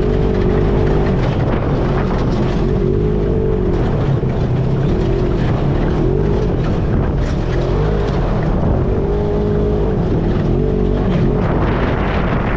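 ATV engine running under way, its revs rising and falling with the throttle.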